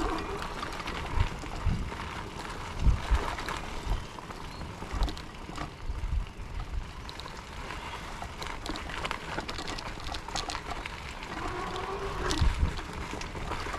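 A fat-tire electric bike riding slowly over a rocky dirt trail: steady wind and tyre noise, with low thumps and rattles as it goes over bumps. A low hum rises and falls near the end.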